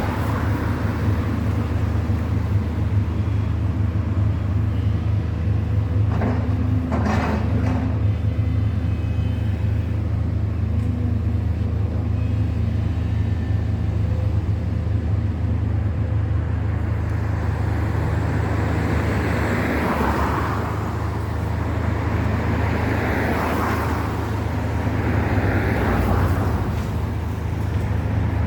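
Road traffic with a steady low engine rumble, and several vehicles passing one after another in the second half.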